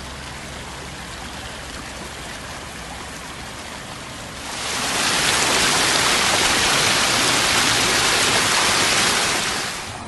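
Rainwater rushing along a flooded wadi and over small falls, a steady rush of water. About four seconds in a much louder, even rush takes over and stops just before the end.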